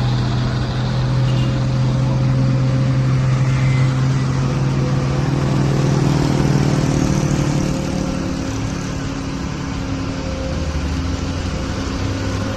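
Truck engine labouring up a steep hill: a steady low drone that rises a little in pitch about halfway through, then eases off.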